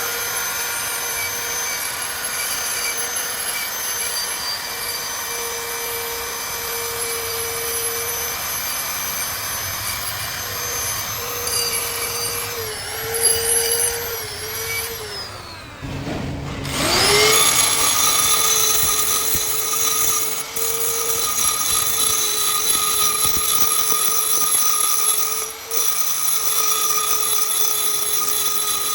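Electric power tool motor running at speed with a steady whine. About halfway through it winds down, then starts up again about a second later and runs on.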